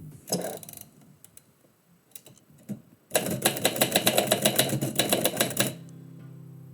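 Typewriter keys striking: a short clatter and a few scattered strokes, then a fast run of about ten keystrokes a second for two and a half seconds that stops abruptly.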